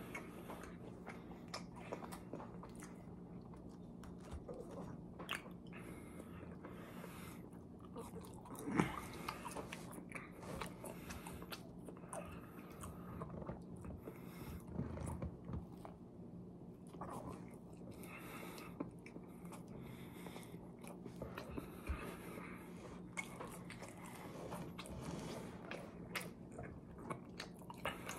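Close-up chewing and biting of a fast-food burger and french fries: steady mouth sounds with many small crunchy clicks, the sharpest bite about nine seconds in, over a faint steady hum.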